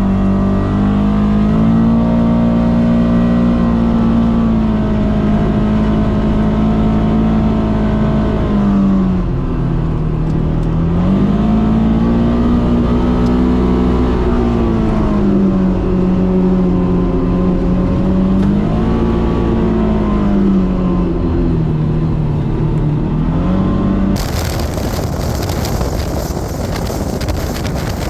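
Polaris Xpedition side-by-side's engine running on a trail ride, its pitch rising and falling several times as the throttle is worked. Near the end a rough rushing noise of wind on the microphone takes over.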